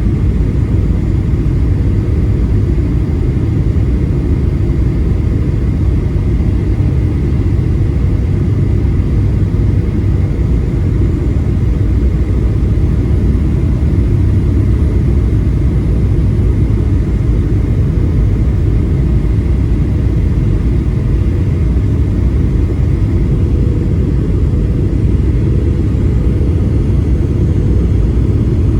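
Steady, loud low rumble inside the passenger cabin of a Boeing 737-800: engine and airflow noise with a faint steady whine above it.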